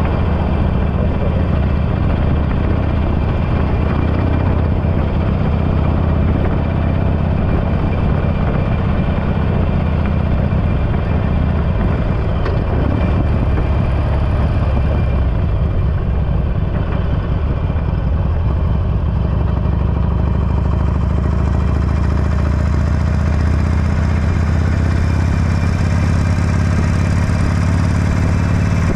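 Harley-Davidson Forty-Eight's air-cooled V-twin running steadily through an aftermarket Belles Performance exhaust, a deep, even exhaust note with no revving.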